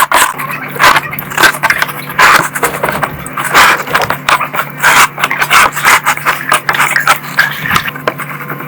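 Repeated scraping strokes, roughly one or two a second, over a steady low hum.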